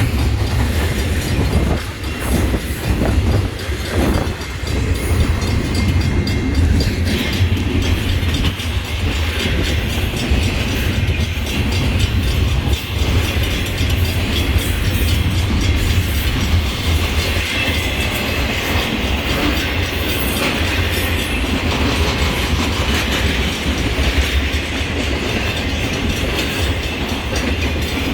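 A train rolling past on the rails: a steady low rumble of wheels on track with clattering over the rail joints.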